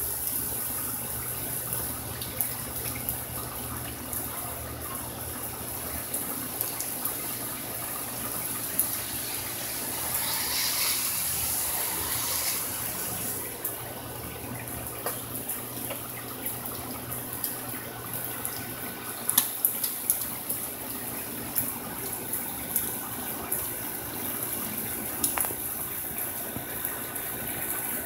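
Steady rain falling, a continuous hiss, with scattered sharp ticks of drops. The rush swells for a few seconds about ten seconds in.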